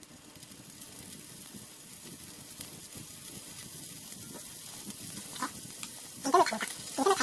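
Pork belly sizzling on a grill over a wood-charcoal fire: a steady hiss that grows louder. Near the end, a few short, louder pitched sounds break in.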